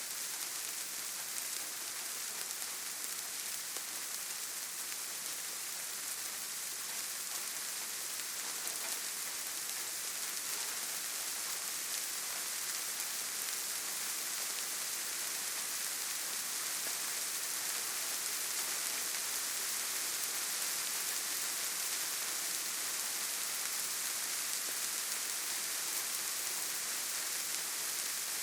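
Steady light rain falling, an even hiss of fine drops with faint scattered patter.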